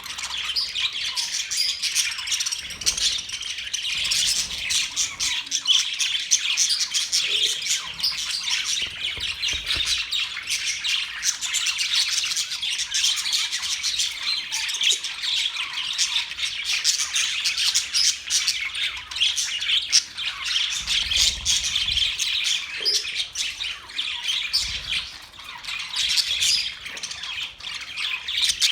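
A flock of budgerigars chattering and chirping continuously, many quick overlapping chirps and squawks.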